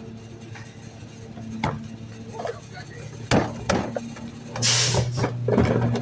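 Garbage truck engine idling steadily, with a few sharp knocks as trash goes into the hopper and a loud burst of hiss about four and a half seconds in.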